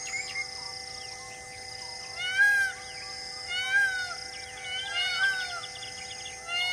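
A bird calling repeatedly: four rising-and-falling notes about a second and a half apart. Several steady high held tones sound behind it.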